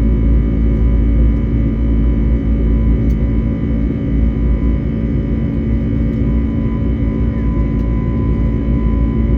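Airbus A321neo jet engines heard inside the passenger cabin: a loud, steady low rumble with several steady whining tones held at constant pitch.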